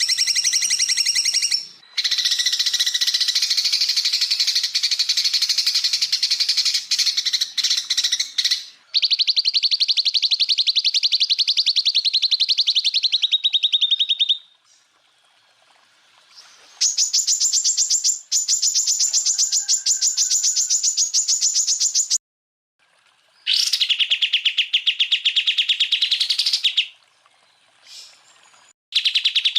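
Cucak ijo (green leafbird) singing in long runs of very rapid, evenly repeated high notes, the rapid-fire 'tembakan' phrases. The bouts last a few seconds each with brief pauses between; one run sits lower and dips slightly at its end, and the next is pitched higher.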